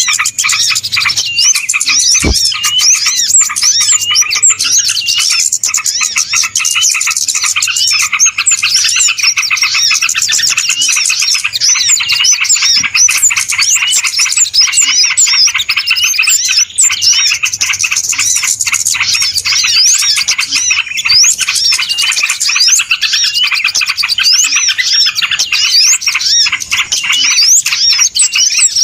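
A dense, unbroken chorus of many small birds chirping and twittering over one another in quick, high-pitched calls. It is a noisy bird-lure recording of the kind played to draw wild birds in.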